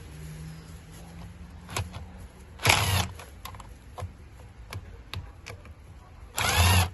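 Two short bursts of a small handheld power driver spinning screws, each about half a second long and a few seconds apart, with the motor's pitch sweeping up and down. Faint clicks and taps of tools and parts being handled in between.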